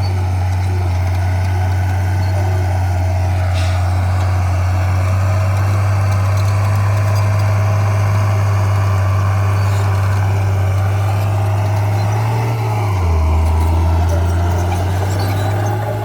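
Diesel engine of heavy earthmoving equipment running steadily with a deep hum. Its pitch drops about thirteen seconds in as the engine slows, then rises again near the end.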